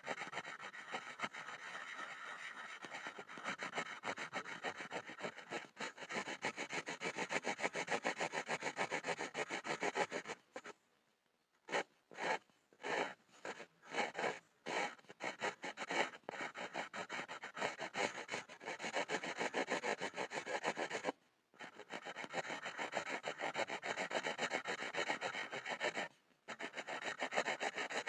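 Pencil scribbling on a board in rapid rasping back-and-forth strokes. About ten seconds in it stops, then comes back as a few short separate strokes before running on fast again, with two more brief pauses later.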